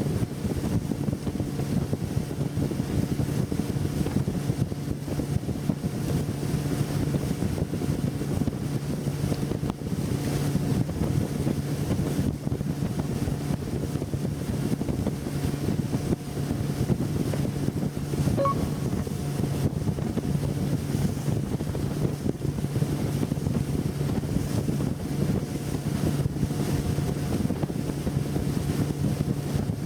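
Brand-new Yamaha F90C four-stroke outboard running steadily at speed, heard from on board with wind buffeting the microphone and water rushing past the hull.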